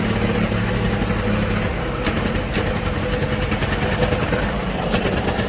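Volkswagen TDI turbodiesel engine idling steadily, running fair after being started on a borrowed battery.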